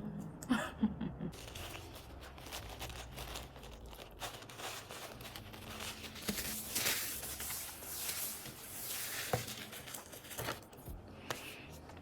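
Rustling and crinkling handling noise, with a few light clicks, stopping near the end.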